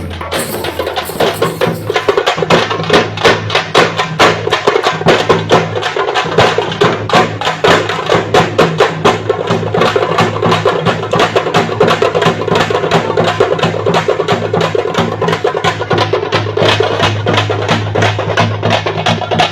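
Parai (thappu) frame drums beaten with sticks in a fast, driving rhythm of sharp, crisp strokes, about five a second, over a steady low drone.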